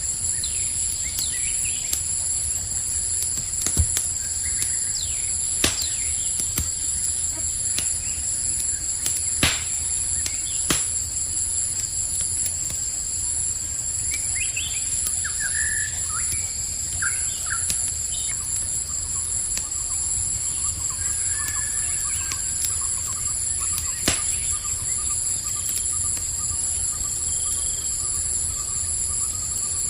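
Campfire crackling with a few sharp pops over a steady, high-pitched chorus of crickets. Brief bird chirps come about halfway through.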